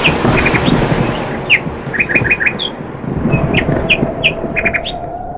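Birds chirping: many short, high chirps, some in quick runs of three or four, over a steady rushing background noise.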